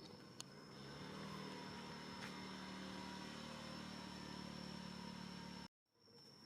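A faint, steady engine hum that swells about a second in and cuts off abruptly near the end, with a thin high whine running under it.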